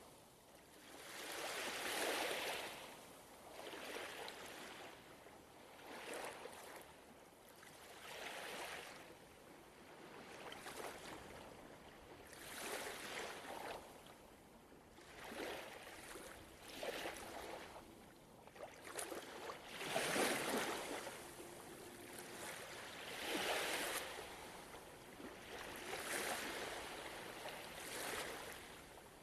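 Gentle ocean waves washing onto a shore, each one swelling and fading every two to three seconds, with a larger wave about twenty seconds in.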